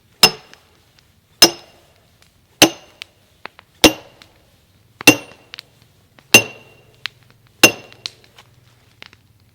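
Sledgehammer striking a steel splitting wedge driven into a chestnut log: seven heavy blows about a second and a quarter apart, each a sharp metallic clink with a short ring.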